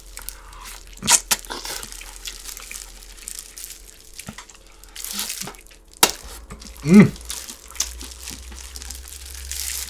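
Close-up eating sounds: crinkling of plastic gloves as pork ribs and kimchi are handled, a few sharp clicks, and a short voiced "mm" about seven seconds in.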